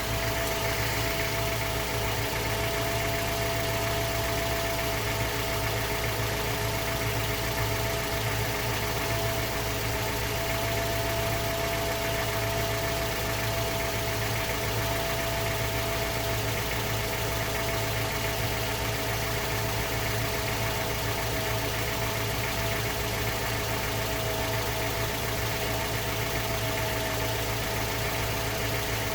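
Mazda 3 2.0 MZR DISI direct-injection four-cylinder engine idling steadily after a cold start, with injector ticking and a metallic knock that the owner suspects is piston slap, or possibly a worn rod bearing.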